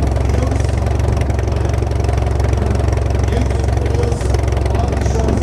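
A vehicle engine running steadily at low speed, a constant low rumble.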